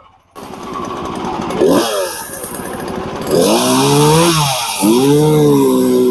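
Gas chainsaw starting up about a third of a second in and being revved to trim a knot off a log, its engine pitch rising and falling several times with a brief drop in the middle.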